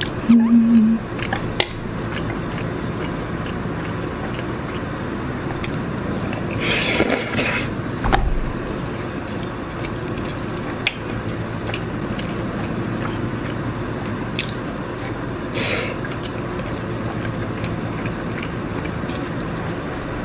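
Close-miked eating sounds: chewing jjapaghetti noodles and fried egg, with a few sharp clicks of wooden chopsticks against the bowl. There are two louder wet mouth noises, about seven and sixteen seconds in, and a short low hum right at the start.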